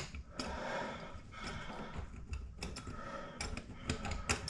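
Irregular small clicks and scraping of hand work on a metal sink drain clogged with debris.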